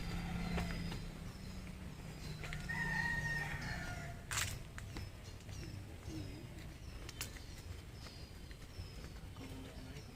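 A rooster crowing about two and a half seconds in, over high repeated chirps; a single sharp click comes about four seconds in.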